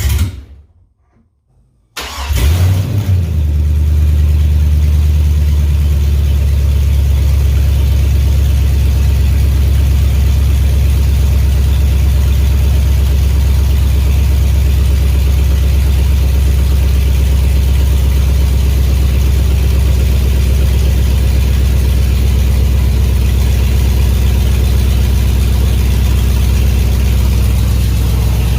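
A 2003 GMC Yukon Denali's 6.0-litre V8, with no exhaust fitted, catches about two seconds in. It flares briefly, then settles into a loud, steady idle.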